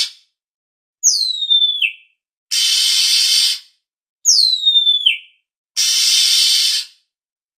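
Oriental magpie-robin (kacer) calls played as a lure: a whistled note that slides down in pitch, twice, alternating with three harsh rasping churrs of about a second each in an even, repeating pattern.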